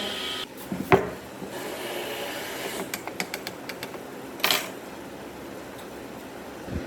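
Workshop handling sounds: a running machine stops about half a second in, then a sharp knock, a quick run of light clicks and a brief rush of noise, typical of tools and wood being handled on a workbench.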